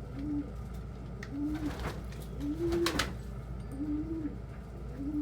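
Domestic pigeon cooing: five short, low, arched coos about a second and a quarter apart. There are two brief rustles partway through, one about two seconds in and a louder one about three seconds in.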